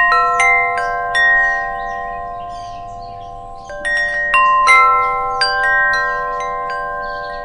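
Wind chimes knocked by the wind, striking clear, long-ringing notes at irregular moments: a cluster at the start and another about four seconds in, each note fading slowly.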